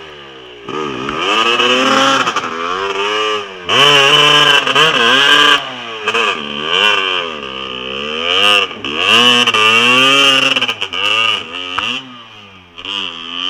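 Dirt bike engine revving hard over and over, its pitch rising and falling with each blip of the throttle. There are loud surges a second or two long, with dips between them.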